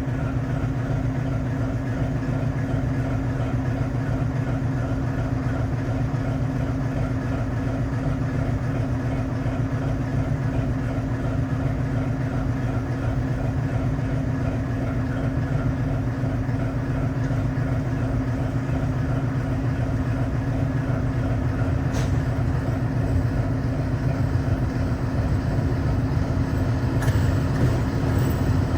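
Old mining locomotive running, its engine holding a steady, unchanging note, with one short click well into the run.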